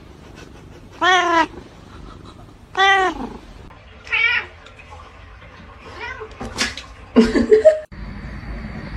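A cat meowing in a string of drawn-out, wavering calls: three long ones spaced about a second and a half apart, then shorter, quicker ones, with the loudest near the end.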